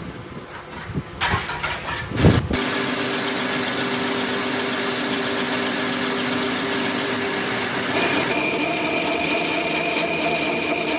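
A motor starting after a few irregular knocks and then running steadily with a held whine, its tone shifting higher about eight seconds in.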